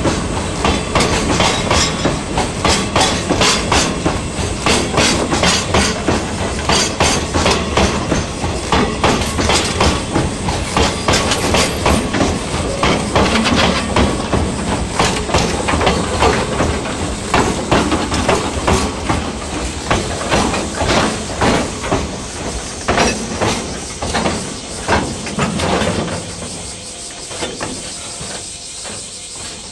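Freight train wagons rolling past, wheels clicking rapidly over the rail joints over a steady rumble; the clatter fades away about 26 seconds in as the train moves off.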